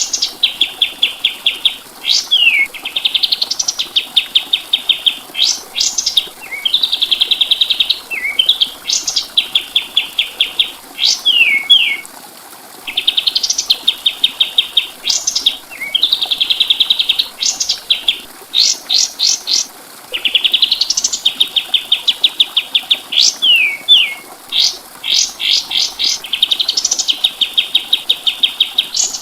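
Kapas tembak songbird singing continuously in a tutoring (masteran) recording. Fast rattling trills alternate with quick rising whistles and short falling notes, phrase after phrase with only brief gaps.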